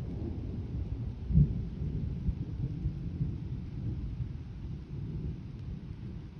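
Thunder rolling in a low, continuous rumble, with a louder jolt about a second and a half in before it slowly eases off.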